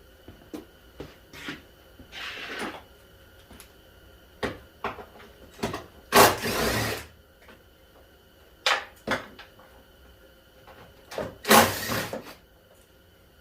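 Socket wrench and metal hand tools working on the car's battery-box bolts: scattered sharp clicks and clanks, with two longer, louder rattling bursts, one midway and one near the end.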